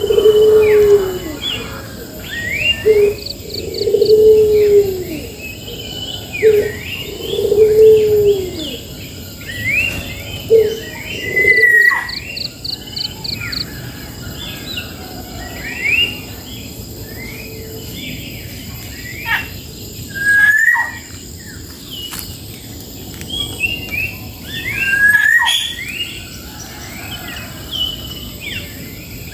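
Several birds chirping and calling in quick, overlapping short notes and trills. Over the first ten seconds or so, a run of low, arched cooing calls repeats about every one to two seconds beneath them.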